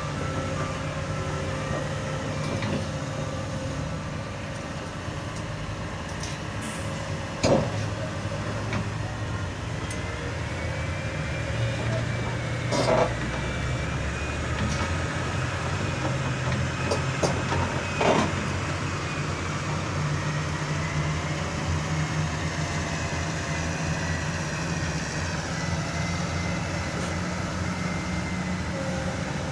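Heavy diesel engine of a large excavator running steadily during unloading, with three loud clanks of metal spread through.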